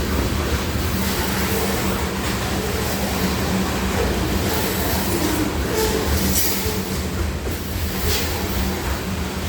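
Freight train of grain cars rolling past steadily: a constant low rumble of wheels on rail, with a few short, high squeals or rattles in the second half.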